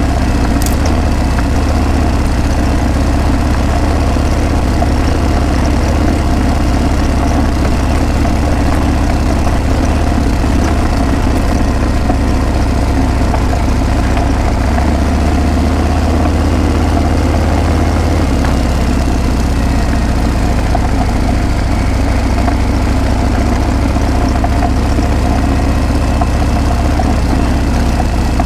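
Harley-Davidson Breakout's V-twin engine and exhaust running steadily, a deep, continuous low note that shifts slightly around two-thirds of the way in.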